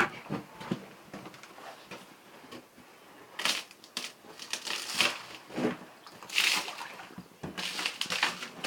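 Ice being broken up: a series of irregular crunching, cracking sounds, about a second apart.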